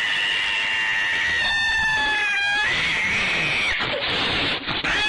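A cat yowling in long, high, drawn-out cries, the pitch dropping about two and a half seconds in before another wail.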